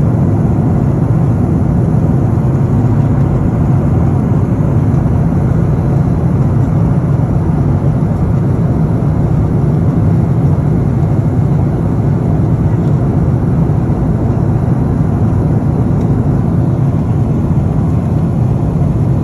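Steady cabin noise of an airliner in flight: an even, low drone of engines and rushing air.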